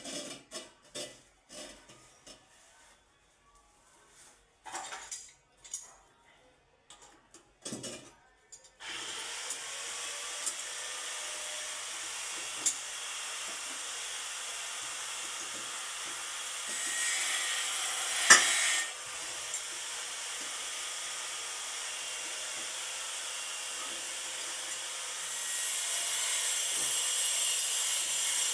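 Hand tool work on a surface: a run of short, irregular scraping strokes, then from about nine seconds in a steady rubbing noise that grows louder twice, with one sharp click a little past halfway.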